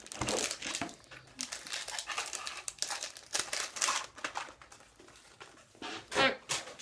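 Snack packaging crinkling and crackling as it is handled, in dense irregular bursts, then a short whine that bends up and down near the end.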